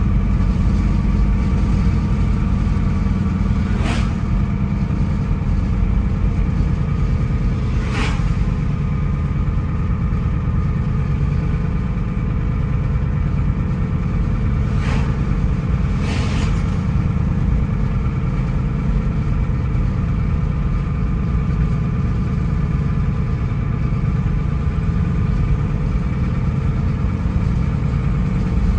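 Car engine and road noise while driving: a steady low rumble with an even engine drone. A few brief clicks stand out, about four seconds in, eight seconds in, and twice around fifteen to sixteen seconds.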